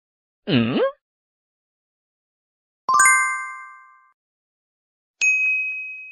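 Three sound effects played one after another with silence between them: a short sound that swoops down in pitch and back up, then a bell-like ding that rings out for about a second, then a higher, purer ding near the end.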